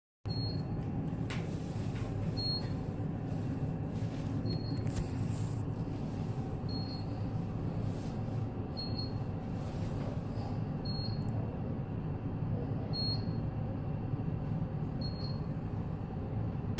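Steady low rumble with a short, high electronic beep repeating about every two seconds.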